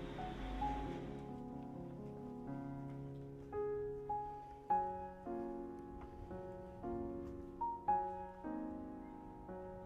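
Piano music: a slow melody of single held notes over sustained chords, with the street background fading out about a second in.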